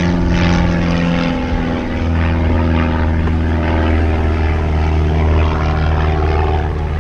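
Engine drone of a light propeller plane flying overhead: a steady, pitched hum whose pitch drops slightly about two seconds in as it passes.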